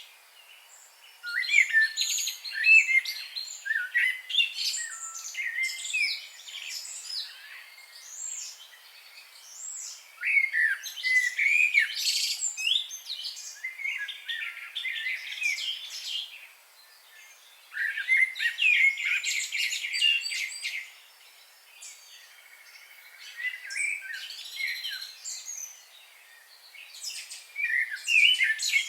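Wild songbirds chirping and singing in quick, sweeping notes. The song comes in busy bouts of a few seconds, separated by short lulls.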